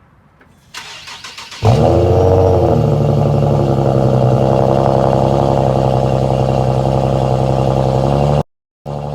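Infiniti G37S 3.7-litre V6 with a muffler delete cold-starting: the starter cranks for about a second, the engine catches loudly and flares, then settles into a steady, loud, raspy high idle. Near the end the sound cuts out for a moment and comes back quieter.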